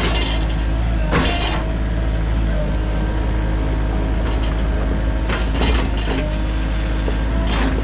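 Sany mini excavator's diesel engine running steadily, with three short, sharp noises across it: about a second in, around five and a half seconds in, and near the end.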